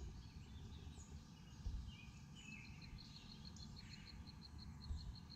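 Faint outdoor summer ambience: scattered short bird chirps, and from about two and a half seconds in a steady high chirp repeated evenly about five times a second, over a low rumble.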